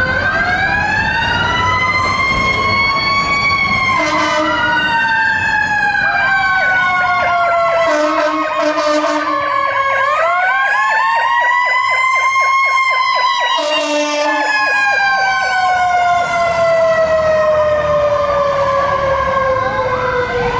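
Fire engine responding with its sirens on: an electronic Powercall siren wailing in long rising and falling glides and switching to a rapid yelp in the middle, overlapped by a second siren tone. Three short air horn blasts sound over it.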